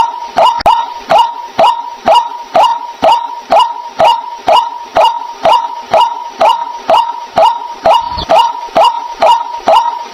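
White-breasted waterhen call: a harsh, loud note repeated steadily about twice a second.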